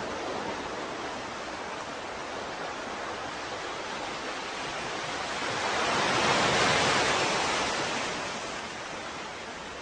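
Ocean surf washing steadily, with one wave swelling and breaking about six seconds in, then fading back.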